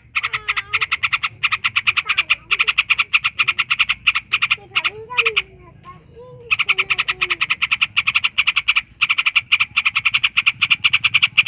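A bird that the title calls a trucuk, a yellow-vented bulbul, giving long rapid rattling trains of about ten pulses a second. There is a short break partway through, and fainter gliding chirps sound beneath.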